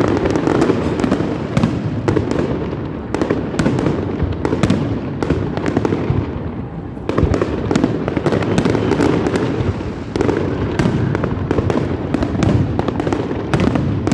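Large fireworks display: a dense, continuous run of bangs and crackling from many shells bursting, with no pause. Fresh salvos make it louder about seven and ten seconds in.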